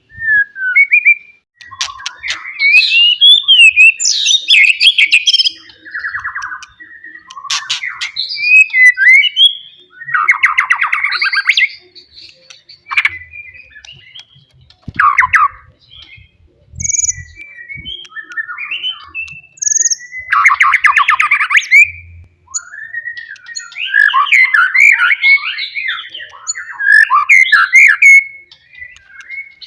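White-rumped shama singing a loud, varied song of whistled phrases and quick trills, with harsh buzzing notes about ten and twenty seconds in.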